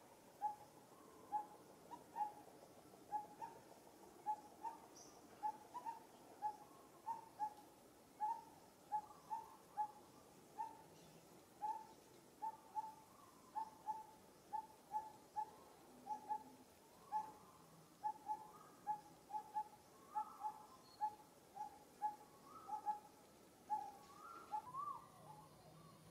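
A bird calling: one short note at a single steady pitch, repeated evenly about one and a half times a second, with some fainter chirps near the end.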